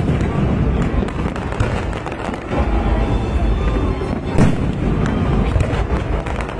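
Fireworks display: a continuous crackle of many shells bursting over a low rumble, with louder bangs at the very start and about four and a half seconds in.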